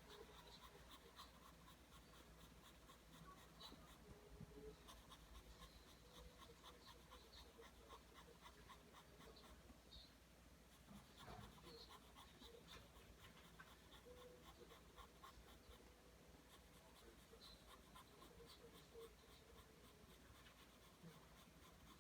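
Pencil drawing lines on paper: a faint, steady run of short scratching strokes.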